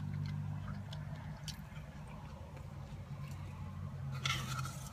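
Close-up chewing and biting of fried mozzarella cheese curds, with small wet mouth clicks, over a steady low hum. A brief rustling noise comes about four seconds in.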